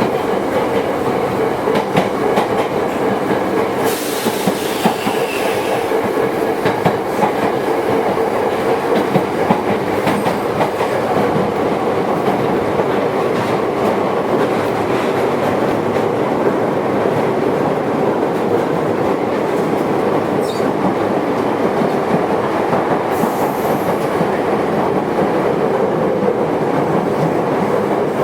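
Onboard running sound of a Toyohashi Railway 1800 series electric train, an ex-Tokyu car: steady wheel, motor and car-body noise with rail-joint clicks. A brief hiss comes in about four seconds in and again near the end.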